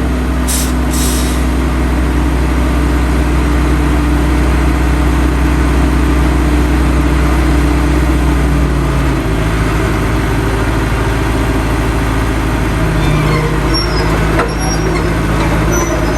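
Heavy diesel engine of earthmoving machinery running steadily; its note drops and turns rougher about nine seconds in.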